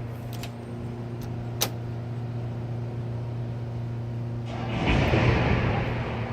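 Steady low droning hum with a few fixed tones. A single sharp click comes about a second and a half in, and a rushing noise swells and fades about five seconds in.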